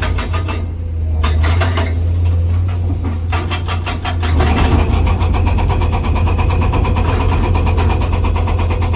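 Hydraulic breaker hammer on a Komatsu PC200 excavator pounding hard rock in a rapid, even train of blows over the steady drone of the diesel engine. The hammering stops briefly about a second in, comes back softer, then runs on louder from about halfway through.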